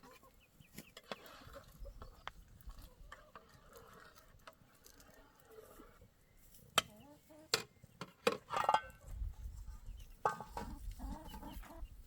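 Chickens clucking, with scattered sharp clicks and knocks; the loudest calls come past the middle.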